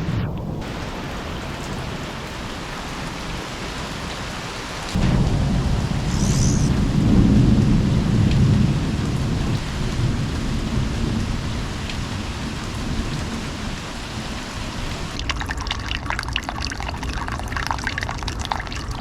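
Steady rain, with a low rumble of thunder that starts abruptly about five seconds in, swells and then fades. Near the end a closer patter of raindrops on a surface comes in.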